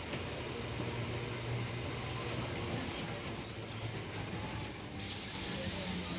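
Passenger train running, heard from a carriage window as a steady rumble with a low hum. About three seconds in, a loud, steady, high-pitched whine joins it for about two and a half seconds, then fades.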